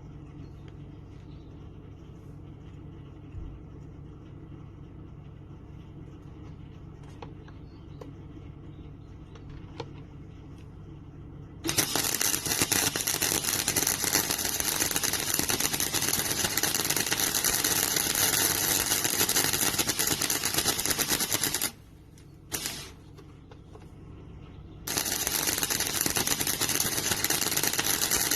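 MIG welder arc crackling as a bead is push-welded on car body sheet steel, in two long runs with one short burst between them. A low steady hum comes before the first run.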